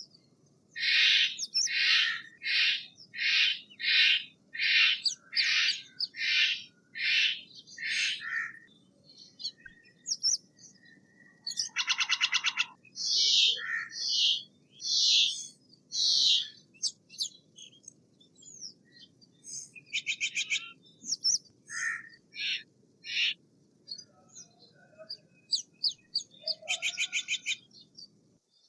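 Steller's jay calling: a fast run of about a dozen harsh, screechy calls, then a short rattle, more harsh calls and scattered shorter notes, with a second rattle near the end.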